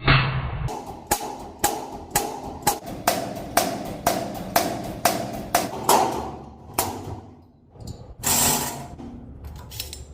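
A fast run of sharp knocks, about three a second for some six seconds, each ringing briefly, like repeated hammer or tool strikes. A short burst of hissing noise follows about eight seconds in.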